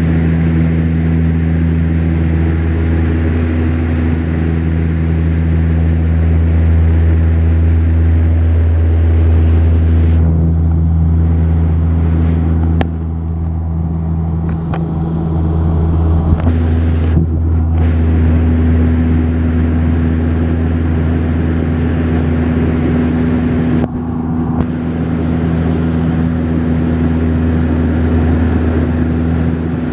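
Cabin drone of a Saab 340B's twin General Electric CT7-9B turboprops in flight: a steady low propeller hum with several held tones under a hiss of rushing air.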